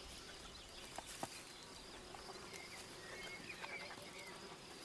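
Faint woodland ambience: a couple of light clicks about a second in, then a few short, high chirps from small birds in the second half.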